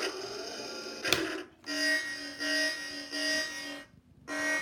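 Electronic sound effects from a Hess toy truck's small speaker: a click, then a reedy, buzzy tone sounding in short repeated pulses, like a toy horn, that pause briefly near the end and start again.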